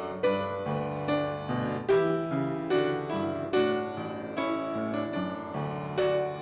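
Piano playing slow chords, a new chord struck about once a second and each left ringing as it fades.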